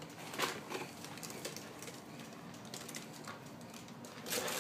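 Faint, scattered taps and rustles of small objects being handled, with a short louder scuffle near the end.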